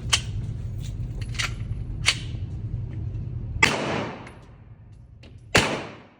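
Handgun shots at a shooting range: a few fainter sharp cracks in the first two seconds, then two loud shots about two seconds apart near the end, each ringing out in a decaying echo. A steady low hum runs underneath for the first two-thirds.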